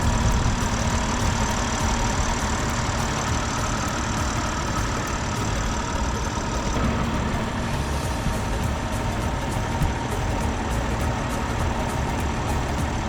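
BMW X6 xDrive40i's 3.0-litre turbocharged inline-six running steadily at idle, an even engine and exhaust sound.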